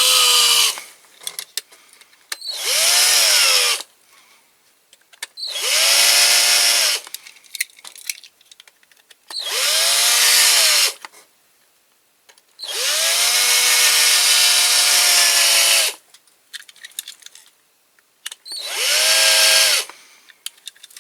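Electric drill drilling out the rivets of a diecast toy car, run in about six short bursts. Each burst winds up in pitch, runs steadily and winds down, with pauses between. The longest burst is about three seconds.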